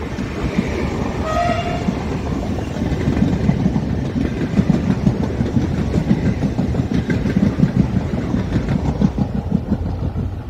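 Frecciarossa 1000 high-speed electric train passing close through a station. A short horn note sounds about a second in, then the wheels clatter rhythmically over the rail joints as the carriages go by.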